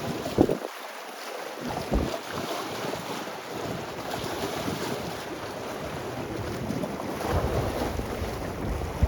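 Gale-force wind buffeting the microphone, with storm waves surging on the sea beneath; the gusts grow heavier near the end.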